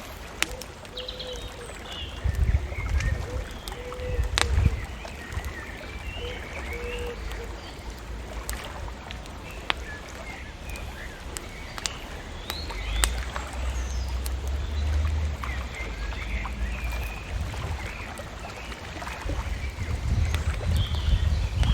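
Bonfire crackling with scattered sharp pops, while small birds chirp and twitter throughout. Low rumbling swells rise and fall a few times, strongest a couple of seconds in, in the middle and near the end.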